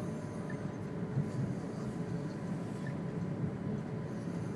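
Steady low rumble inside a high-speed train's passenger car as the train rolls slowly along a station platform, with a faint steady tone above it.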